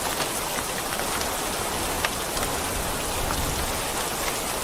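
Steady rain falling on a surface, with scattered individual drops ticking on top, one sharper drip about two seconds in.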